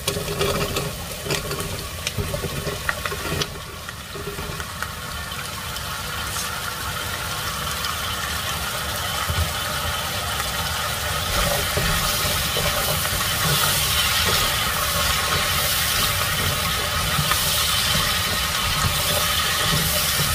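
Diced raw potatoes tipped into a hot pot of browned smoked sausage and onions, the pieces clattering in over the first few seconds. Then a steady frying sizzle that slowly grows louder as the potatoes heat.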